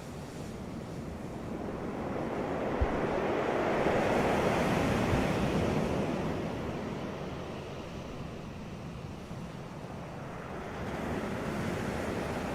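Ocean waves breaking on a beach: a wave swells and crashes about two to five seconds in, washes back and fades, and the next begins rising near the end, with some wind on the microphone.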